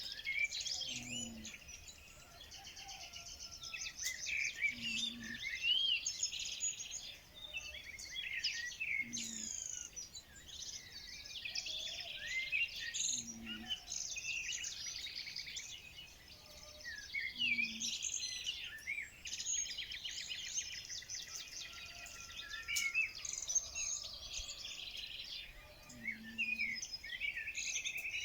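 A chorus of songbirds chirping and singing together, with many short overlapping calls and whistles. Near the end one bird gives a fast, even trill. A faint low call recurs about every four seconds underneath.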